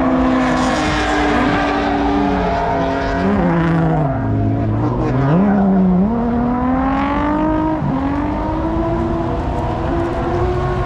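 A car's engine revving hard while it is driven around the donut pit. The pitch holds high, drops sharply about four seconds in, then climbs back up over the next several seconds.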